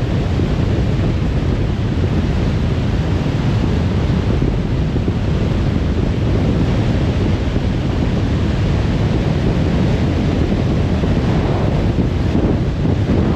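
Steady road and wind noise of a car driving at motorway speed: a continuous low rumble of tyres and rushing air with no separate events.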